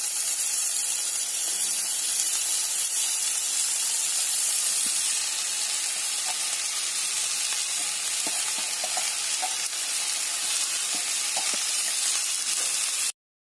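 Pumpkin cubes, onion and spices sizzling steadily in hot oil in a pan, with scattered light clicks as cooked rice is tipped in from a steel bowl. The sound cuts off abruptly near the end.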